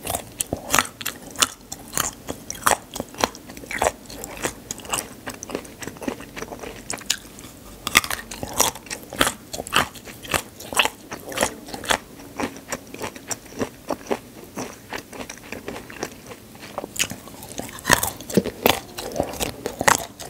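Close-miked chewing of peeled chestnuts: many crisp, irregular bites and crunches.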